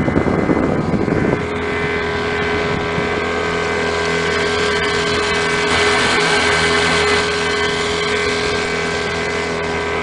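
Outboard motor of a Catalina 22 sailboat running steadily, a constant hum that holds one pitch, with the boat under power in a calm. A rush of noise covers the first second or so.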